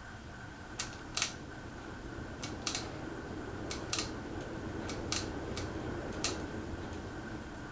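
Casablanca Panama ceiling fan running with a steady hum and a thin whine, with about ten sharp irregular clicks or ticks scattered through it.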